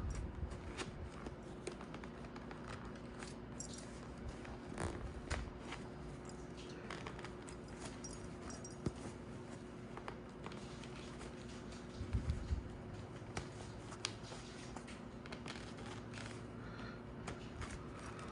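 Handling noises as a motorcycle helmet's fabric-and-foam padding is pushed back into its shell: scattered small clicks, light scrapes and rustling, with a few louder knocks about twelve seconds in. A faint steady hum runs underneath.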